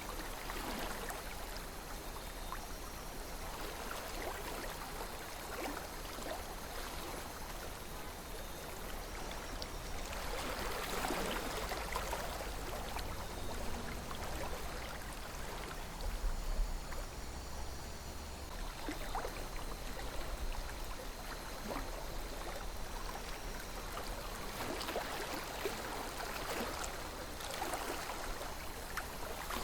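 Gently flowing river water: a steady wash with small gurgles and splashes, swelling and easing every few seconds.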